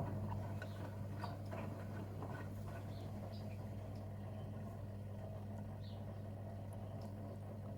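Gorenje UseLogic 65165 washing machine running mid-cycle: a steady low hum switches on suddenly, with light scattered clicks and ticks over it in the first few seconds.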